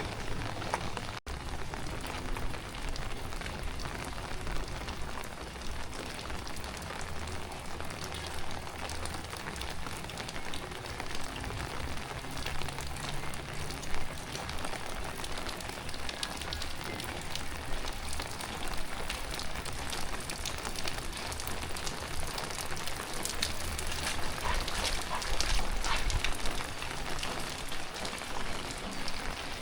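Heavy tropical rain falling steadily, a dense patter of drops, briefly cut out about a second in and growing louder for a few seconds near the end.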